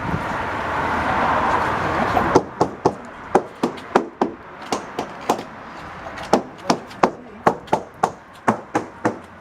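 A steady rushing noise, then from about two seconds in, a run of sharp knocks, two to three a second: a hammer tapping the fiberglass hull bottom of a hauled-out 1982 Viking 35 Convertible, sounding it out during the survey for blisters and delamination.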